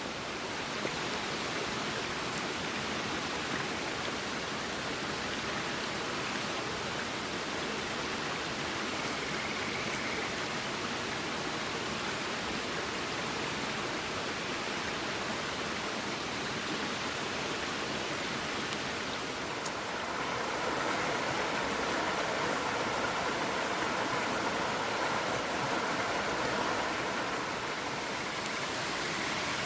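River water flowing in a steady rush, growing a little louder about two-thirds of the way through, with a single faint click near the same point.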